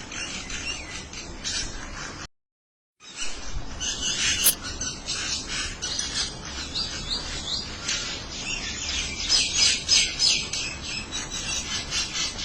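A small group of little birds chirping and calling back and forth in quick, dense, high-pitched calls. The sound drops out completely for under a second about two seconds in, then the chattering resumes.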